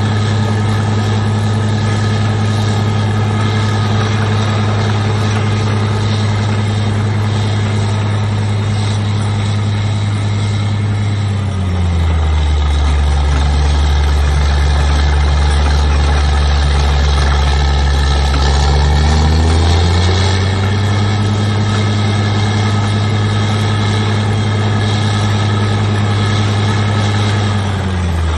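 Engine of a truck-mounted water well drilling rig running steadily. Its pitch drops about twelve seconds in and the sound gets slightly louder, then the pitch climbs back about eight seconds later and drops again near the end.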